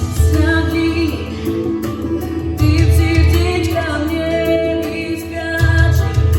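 A female voice singing held, wavering notes over an instrumental backing track with a steady bass.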